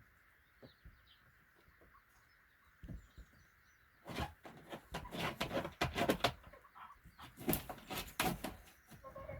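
Hen rustling and scratching about in a plastic nest box lined with straw: quiet at first, then from about four seconds in a dense run of scratchy rustles and knocks lasting about five seconds.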